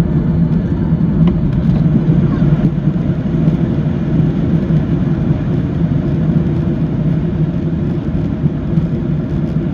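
Steady low roar of a Boeing 737-800's engines and airflow, heard from inside the cabin over the wing.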